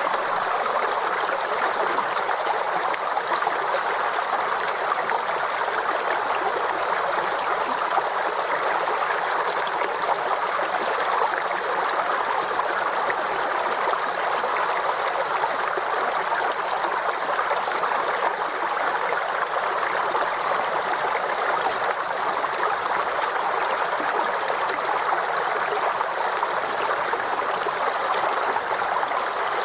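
Forest stream flowing and gurgling steadily, a constant rush of water.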